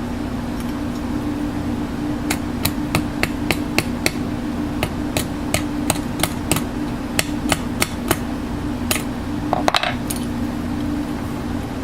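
A hammer tapping on metal, a quick run of light strikes about two to three a second with a brief ringing scrape near the end, over a steady hum.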